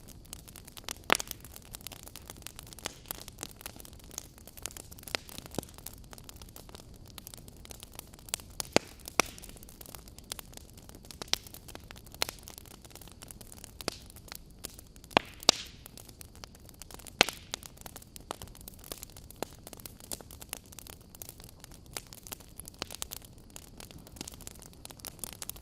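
Wood campfire burning, with a steady hiss and irregular sharp crackles and pops from the burning logs, a few louder pops standing out.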